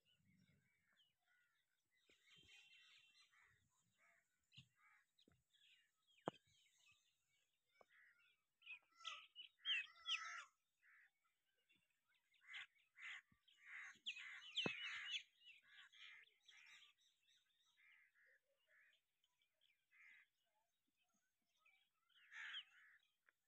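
Faint, scattered bird calls and chirps in short bursts, busiest around the middle, with two sharp clicks.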